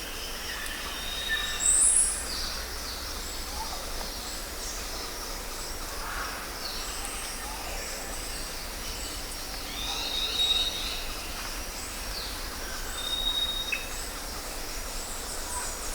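Rainforest ambience: a steady high insect drone under scattered bird calls, short whistled notes and falling chirps. The loudest is a sharp, very high call about two seconds in.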